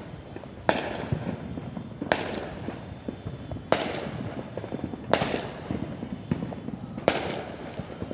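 Fireworks going off one after another: five sharp bangs roughly a second and a half apart, each trailing off, with a fainter one near the end, over a constant crackle of more fireworks.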